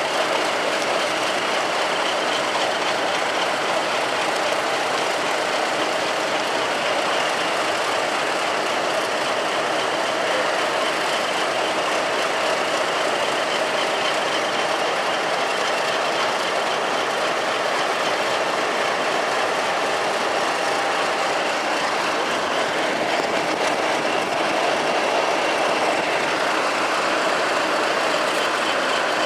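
Diesel train running, with a steady, even engine and rail noise.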